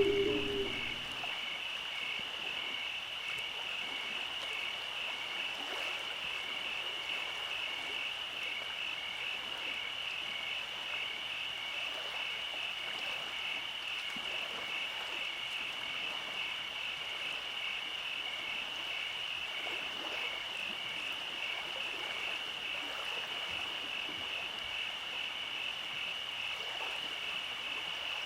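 Steady night chorus of calling frogs or insects: a continuous high-pitched pulsing trill, over a faint hiss. A loud low droning tone fades out about a second in.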